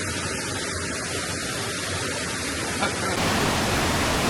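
Steady rushing noise of a waterfall. About three seconds in it cuts suddenly to a louder, fuller rush.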